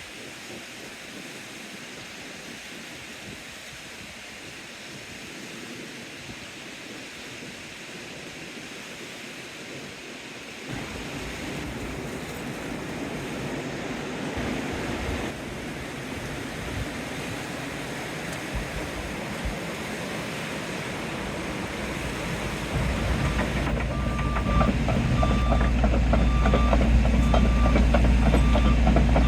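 A train approaches along the seaside line and grows steadily louder, becoming a loud, deep rumble as it passes close by in the last few seconds. Waves wash faintly underneath, and a short beep repeats about once a second near the end.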